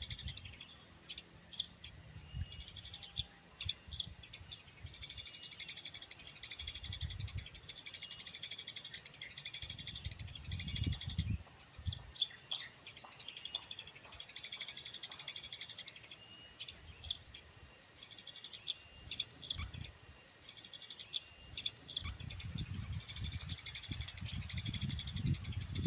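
Small birds chirping in short scattered calls over a steady high insect drone, with stretches of low rumbling wind on the microphone.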